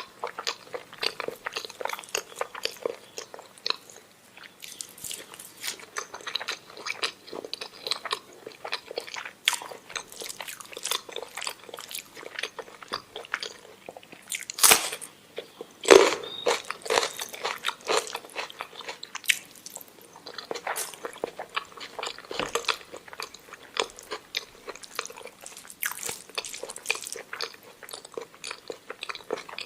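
Close-miked chewing and wet mouth sounds of a person eating omelette with rice: irregular smacks and clicks throughout, with two sharper, louder ones about halfway through.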